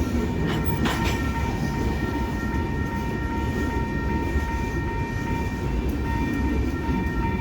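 Train rolling past with a steady low rumble of wheels on rail and a few thin, steady high tones above it that fade out midway and come back near the end. A couple of short clicks about a second in.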